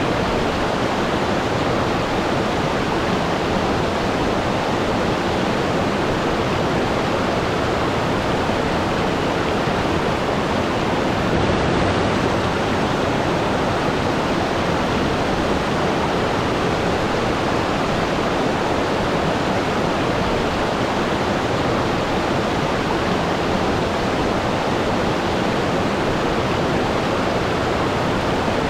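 Waterfall: water falling and rushing in a steady, unbroken roar with no changes.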